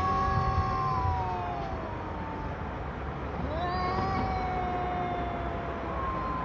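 Cats yowling at each other: long drawn-out calls that rise, hold and sag, a new one every three or four seconds, sometimes overlapping.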